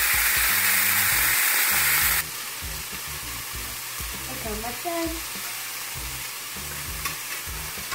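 Seasoned chicken breasts sizzling as they pan-sear in hot olive oil in a skillet. The sizzle is loud and close at first, then drops sharply about two seconds in and carries on softer.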